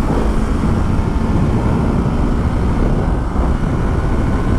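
Motorcycle riding at a steady highway speed: a loud, even rush of wind over the microphone with the engine holding a constant drone underneath.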